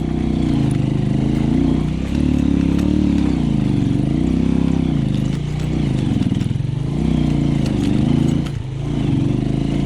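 Small motorcycle engine running under way, its engine speed falling and rising again every second or two as the throttle is worked, with a short drop off the throttle late on.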